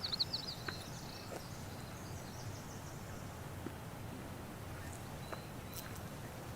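Quiet forest ambience: a low steady background rumble, with a quick twittering bird call right at the start and a few faint, scattered chirps later.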